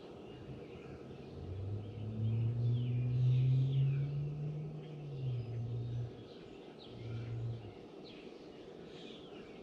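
A motor vehicle's engine droning past, its low pitch rising slightly and then dropping about five seconds in, with a short second drone near the end. Small birds chirp throughout.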